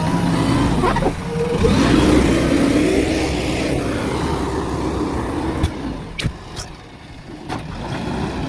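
Backhoe loader's diesel engine running under load with shifting pitch. In the second half the engine drops lower and four or five sharp knocks are heard.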